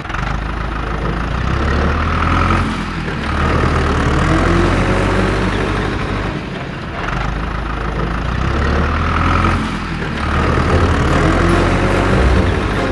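Tractor engine running steadily, with brief dips about every three to four seconds.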